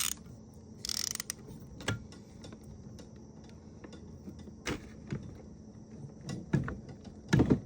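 Hand tools working a bolt on a Subaru EJ engine as it is tightened down onto a crush washer: a short rattling burst about a second in, then a few separate metallic clicks and knocks, the loudest near the end.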